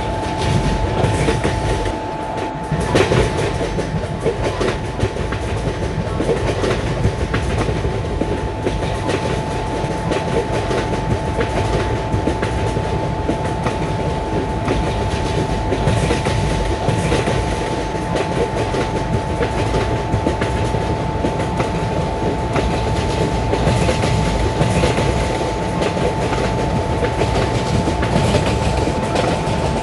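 Train of LHB passenger coaches running on the track, its wheels clattering over the rail joints, with a steady high whine throughout.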